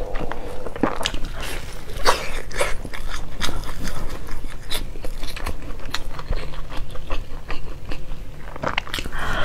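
Close-miked chewing and crunching of a crispy pan-fried flatbread filled with greens and carrot, with many short crisp crackles as it is chewed.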